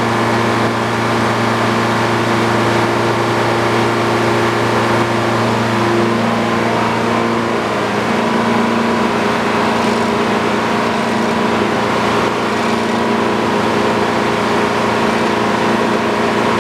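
Old Frick sawmill running at a steady, loud drone, with a small shift in pitch about halfway through.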